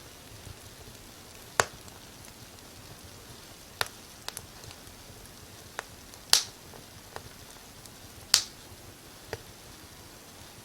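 Wood fire crackling: irregular sharp pops a second or two apart, the loudest about six and eight seconds in, over a faint steady hiss.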